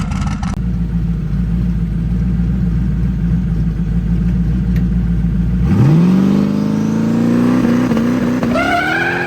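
Drag car's engine running at a steady low rumble, then about six seconds in it revs hard as the car launches, the pitch climbing fast, dipping briefly at a gear shift near the end and climbing again.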